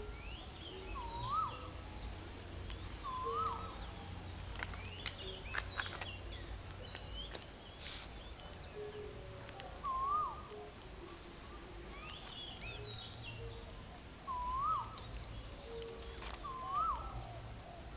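Birds calling. One bird repeats a short whistled call, rising then dipping, every couple of seconds, and other birds give higher chirps, over a low rumble. A few sharp clicks come in the middle.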